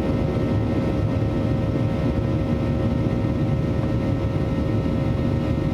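Steady engine and airflow noise of a Boeing 737-800 with CFM56-7B turbofans, heard without change as the airliner climbs after take-off, a deep rumble with a steady hum tone over it.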